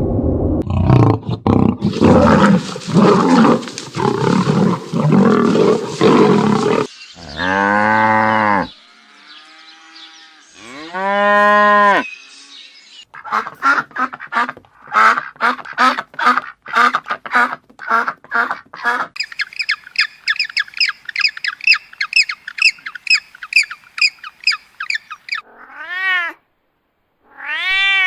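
A run of different animal calls in quick succession. A loud, noisy stretch for about the first seven seconds gives way to drawn-out pitched calls, then a fast series of short calls, a stretch of high rapid chirping, and two short calls near the end.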